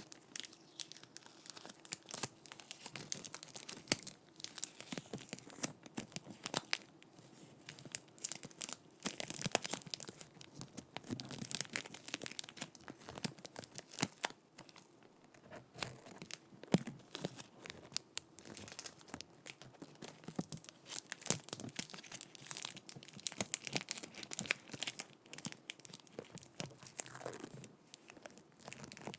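Sticky tape being worked directly on a microphone: dense, irregular crackling and peeling with sharp sticky clicks, coming in uneven clusters.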